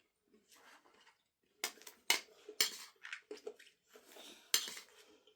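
Utensils clinking and scraping against dishes: a handful of short, sharp clinks.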